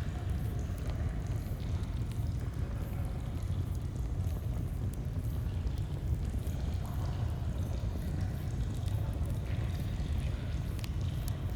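A stream flowing with a steady, low rush of water, with faint scattered crackles from a campfire.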